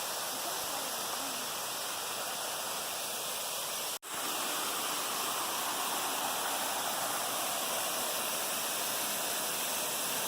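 Steady rush of falling water from Hickory Nut Falls, with a momentary drop-out about four seconds in.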